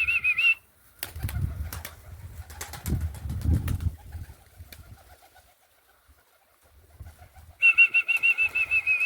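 A warbling, trilling whistle used to call young roller pigeons back to the loft, sounded twice: once ending about half a second in and again from about 7.6 seconds to the end. Between the two come a few seconds of low rustling with light knocks.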